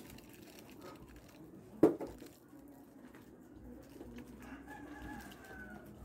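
A sharp knock about two seconds in, the loudest sound, then one long bird call lasting over a second and falling slightly in pitch, about four and a half seconds in.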